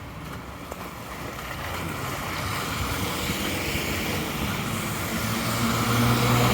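A car approaching along a snowy street: its tyre noise grows steadily louder, and an engine hum comes in near the end.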